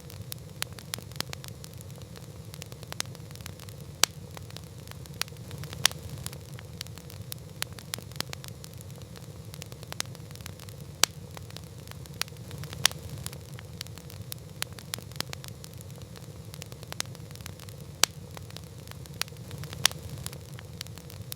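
Wood campfire crackling: a steady low rumble of the fire with frequent small snaps and a louder pop every couple of seconds.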